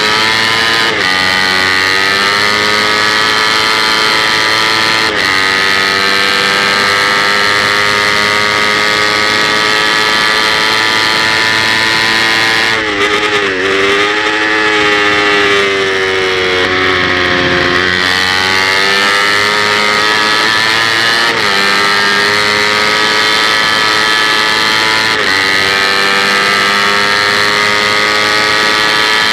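Kawasaki Ninja 250's parallel-twin engine at high revs, heard on-board under race acceleration with a steady rush of wind. It shifts up several times, the pitch dropping briefly at each shift. Midway it drops off and winds down for a corner, then climbs back up.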